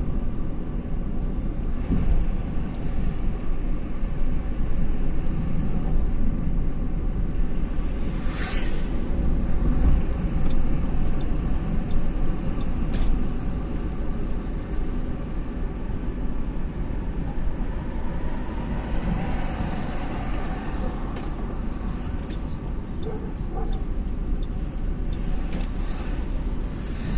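Car driving, with steady engine and road rumble throughout. A brief hiss comes about eight seconds in, and a few short clicks are scattered through.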